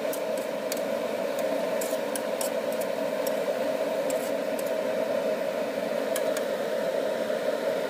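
Bell peppers and onion stir-frying in a wok: a steady sizzling hiss with scattered sharp crackles.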